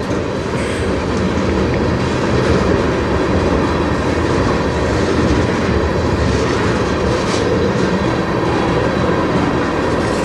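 Freight train of tank cars rolling slowly past, a steady rumble of steel wheels on the rails.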